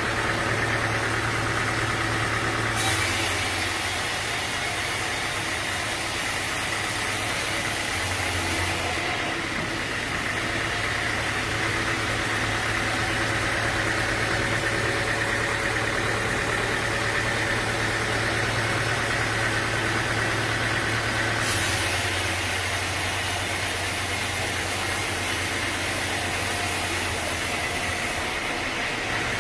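Sawmill machinery running steadily with an engine-like hum. A high hiss comes in twice, for about six and about seven seconds.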